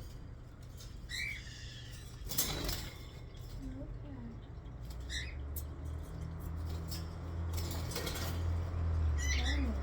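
Pet parrots chirping: short calls about a second in, again about five seconds in and near the end. Between them come a couple of brief rustling noises, and a low hum starts about halfway through.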